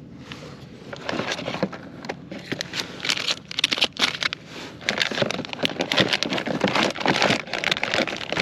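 Plastic crinkling and rustling, with irregular crackles and clicks that thicken after about a second: tackle and soft-plastic lure packets being handled and dug through while changing bait.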